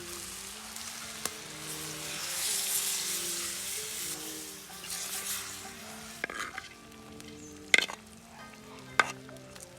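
Food sizzling in hot oil in a pan while being stirred, the sizzle loudest in the first half. Three sharp knocks in the second half, the loudest about eight seconds in.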